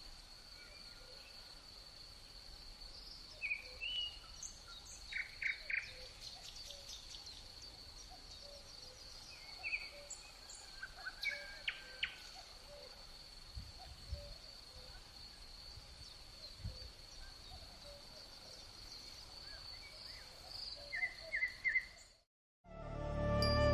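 Birds chirping in short scattered calls over a steady, thin high-pitched whine; the sound cuts off abruptly near the end and music begins.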